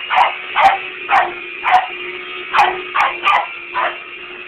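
A dog barking in rapid, agitated bursts at a running vacuum cleaner: about eight barks, roughly two a second, that stop shortly before the end. Under the barks runs the vacuum cleaner's steady motor drone.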